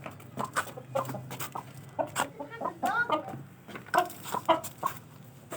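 Aseel chickens clucking: a string of short, scattered calls, with one longer call that bends in pitch about three seconds in.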